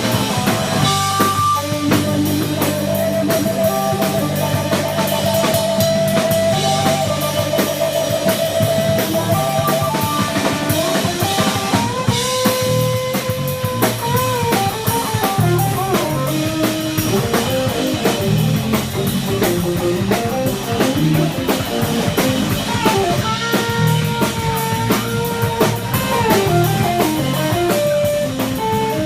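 Live rock band playing an instrumental jam: a lead guitar line with bends and vibrato over drum kit and bass.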